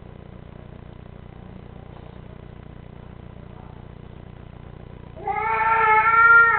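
A pet animal's single long, drawn-out cry. It starts about five seconds in, holds a steady pitch for about a second and a half, and is much louder than the low steady hum behind it.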